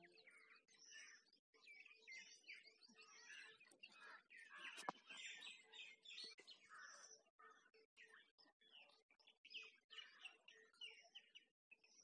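Faint chorus of many small birds chirping and trilling, calls overlapping without pause, with one sharp click about five seconds in.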